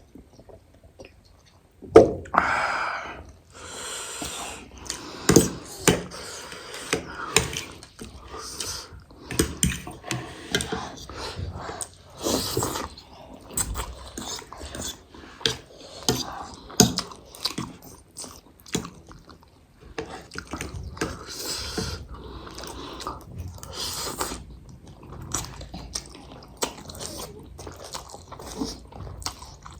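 Close-up chewing and eating noises of spicy chicken noodles, with frequent small clicks and short hissing sounds scattered irregularly.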